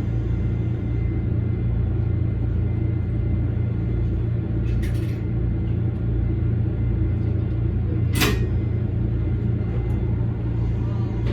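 Electric commuter train running, a steady low rumble heard from inside the car, with a short click about five seconds in and a louder sharp click near eight seconds in.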